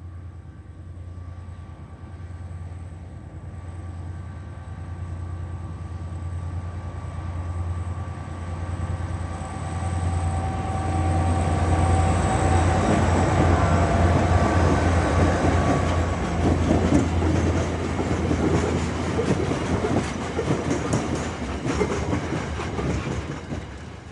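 Twin ex-Queensland Railways 2300 class diesel locomotives with V12 EMD engines hauling a loaded gypsum train. Their steady engine drone grows louder as they approach and is loudest as they pass about halfway through. The wagons then roll by with a dense rumble and rattle of wheels.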